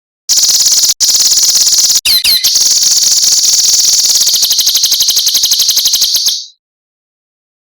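A songbird's harsh, very fast buzzing trill, the 'besetan' phrase used to train caged songbirds, broken briefly twice and joined by a few quick whistled notes, stopping abruptly after about six seconds.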